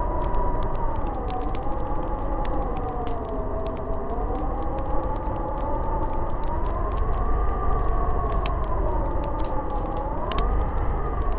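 Snowstorm wind howling: a whistling pitch that slowly rises and falls, over a steady low rumble, with scattered light ticks.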